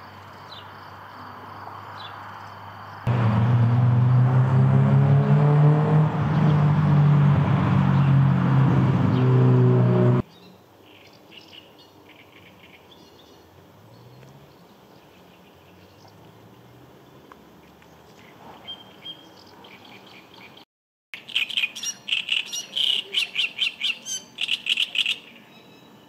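A loud steady drone with several low tones for about seven seconds, a few seconds in. Near the end comes a quick series of repeated high bird chirps.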